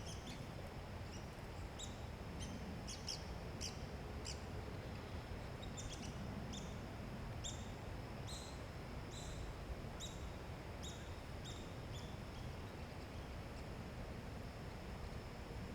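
Red-cockaded woodpecker calling: a run of short, sharp notes, each dipping slightly in pitch, one or two a second, that stops near the end. A steady high-pitched tone and a low rumble run underneath.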